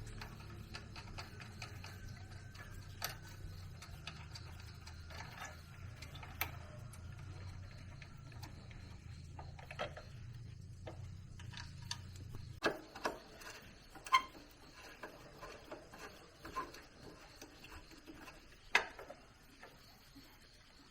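Irregular light clicks and taps over a low steady hum. The hum cuts off about twelve seconds in, after which a few louder, separate knocks stand out.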